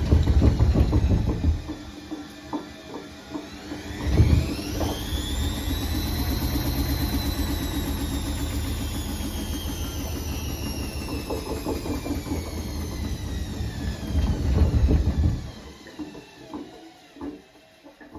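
Bosch washing machine motor, wired straight to the power, running the drum: a whine climbs quickly about four seconds in, then slowly sinks, and the machine stops about fifteen seconds in. A heavy low rumble comes at the start, as the whine begins and again just before it stops.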